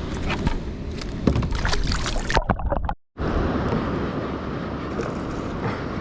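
Wind and water noise around a kayak, with a run of sharp knocks and splashy clicks from handling in the first couple of seconds. It cuts out abruptly near the middle, then the steady wind and water noise returns.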